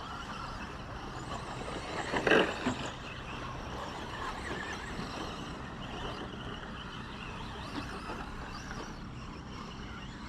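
RC short course trucks running on the track, a steady motor and tyre noise, with one loud short sound a little over two seconds in.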